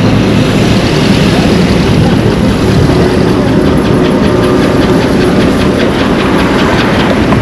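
Road traffic: vehicle engines running along the road, a steady loud rumble.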